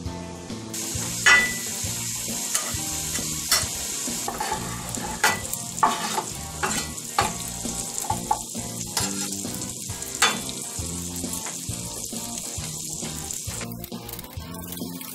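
Minced garlic and diced bacon sizzling in cast-iron skillets on a wood cook stove, with a steady hiss that starts about a second in. A chef's knife taps and scrapes sharply against the pan and wooden cutting board several times as the garlic is pushed in and stirred.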